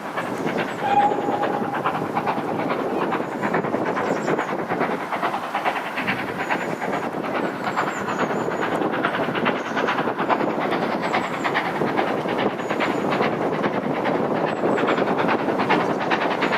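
Steam-hauled passenger train hauled by GWR 5600 class 0-6-2T tank engine 6695, running along the line with a steady clatter of wheels on rail. A short whine is heard about a second in.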